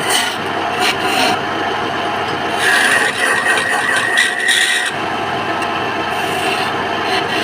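Wood turning on a lathe: a cutting tool scraping against the spinning wood in a steady rasp. It gets louder with a thin whistle-like tone from about three to five seconds in.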